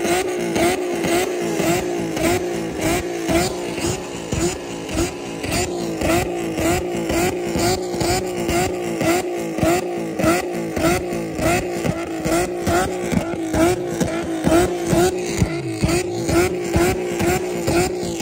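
Nissan 370Z's 3.7-litre V6 held at high revs against the rev limiter, its note stuttering evenly a few times a second, as the rear tyres spin in a stationary burnout.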